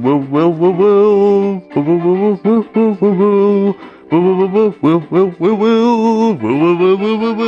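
Beatbox performance by a male voice: pitched, sung vocal sounds in short phrases that waver up and down in pitch.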